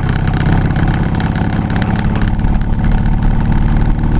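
Steady engine and road noise heard inside a moving vehicle's cabin.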